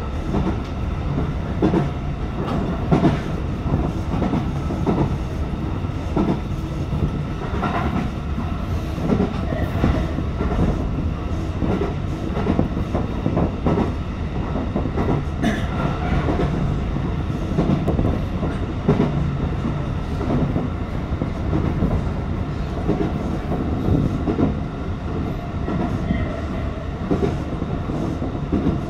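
Tokyo Metro 18000 series electric train running along the line, heard from inside the front car: a steady rumble of wheels on rail, with irregular clicks and clacks.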